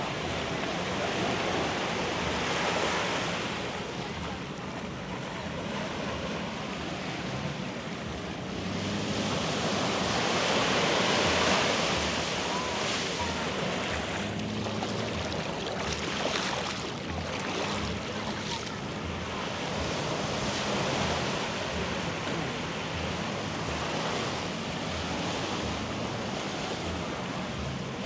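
Sea waves breaking and washing up on the beach, swelling to a louder surge about eleven seconds in.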